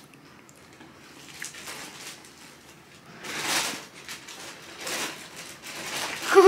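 Biting into and chewing a macaron: a soft crunch of the shell about three and a half seconds in, and a smaller one about five seconds in.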